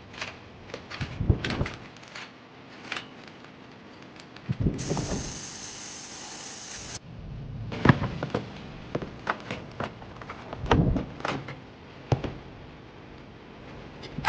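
Irregular knocks and clatters of tools and parts being handled during refrigerator repair work, with a steady hiss lasting about two seconds, starting some five seconds in.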